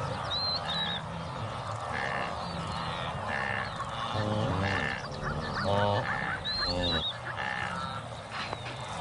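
Herd of cows and calves calling to one another with repeated nasal honking grunts and a few longer pitched calves' bleats, as a calf seeks its mother by her call. Twice, about half a second in and near seven seconds, a bird gives a short whistling phrase over them.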